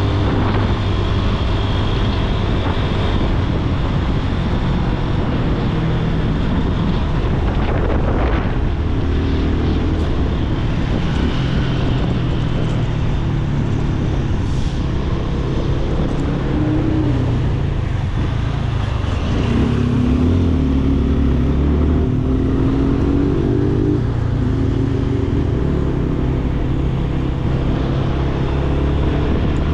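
Yamaha FZ25 motorcycle's single-cylinder four-stroke engine running while riding. In the second half its pitch rises several times in steps as it accelerates through the gears.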